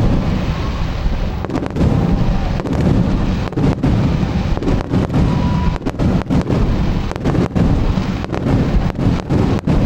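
Fireworks display in a rapid barrage: many shells bursting in quick succession, several loud booms a second overlapping one another.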